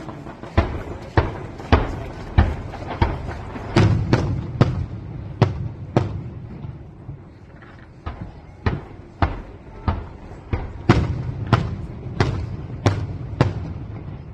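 Fireworks going off in a rapid series of sharp bangs, about two a second, with a short pause near the middle.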